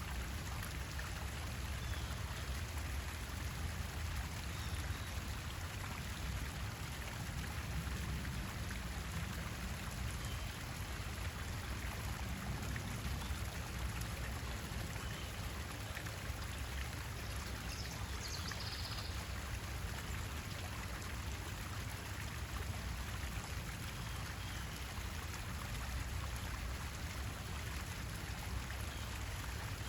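Steady running water with a low rumble underneath. A faint high chirp comes about eighteen seconds in.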